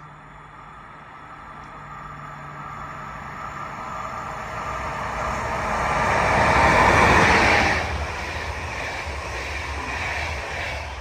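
A train passing: its noise builds over several seconds to a peak about seven seconds in, drops sharply as the front of the train goes by, then carries on as a lower rumble while the rest of the train passes, fading near the end.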